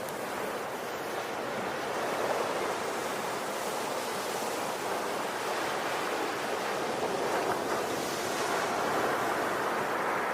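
Ocean waves breaking and washing on a shore, a steady rushing surf that swells and eases gently.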